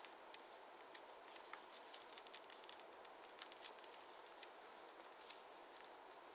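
Near silence: a low steady hiss with faint scattered crinkles and clicks of a square of origami paper being handled and creased, the sharpest tick about three and a half seconds in.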